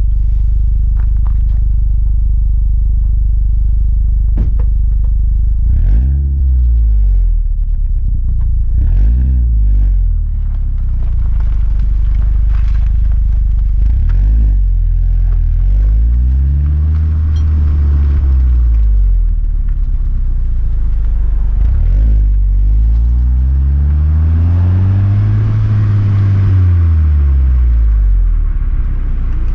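Engine exhaust idling, then revved: two quick throttle blips, then two longer revs that rise and fall back to idle, the second of them the longest.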